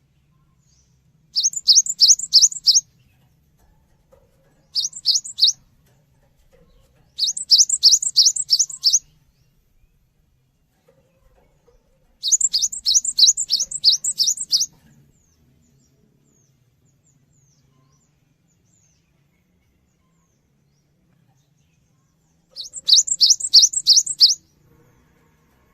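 A cinereous tit (gelatik batu) singing five short bursts of rapid, repeated high notes, each burst lasting one to two and a half seconds. Between the bursts are pauses, and there is a long silence of about seven seconds before the last burst.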